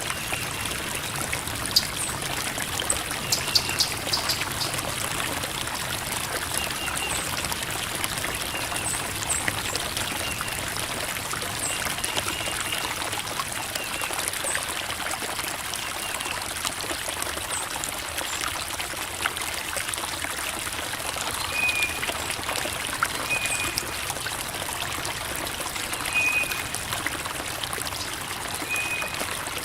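Creek water babbling and trickling over rocks in a steady, even wash, with short high chirps recurring every second or two.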